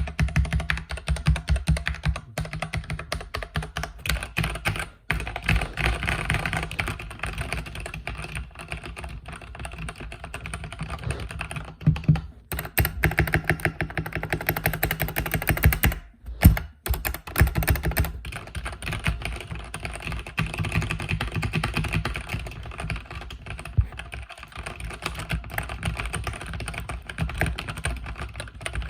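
Continuous fast typing on a mechanical keyboard with red (linear) switches, a dense run of key clacks broken by a few brief pauses.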